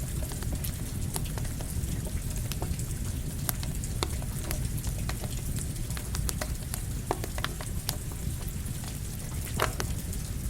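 Campfire crackling with rain falling: irregular sharp crackles and pops over a steady hiss of rain and a low rumble.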